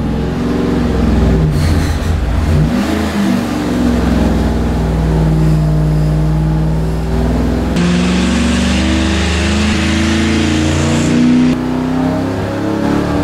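Chrysler first-generation Hemi V8 making a full-throttle pull on an engine dynamometer, its revs climbing slowly and steadily under load, then dropping back right at the end.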